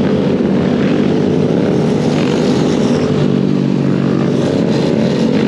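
Dirt bike running at a steady speed: a steady, even motor drone with no change in pitch.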